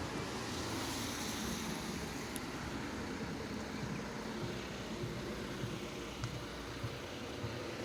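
Steady rushing noise of a motor vehicle on a wet road in the rain, with tyre hiss on the wet surface.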